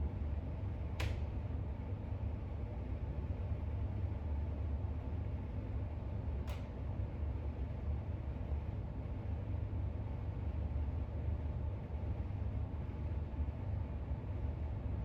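Steady low background rumble, with two brief sharp clicks, one about a second in and one about six and a half seconds in.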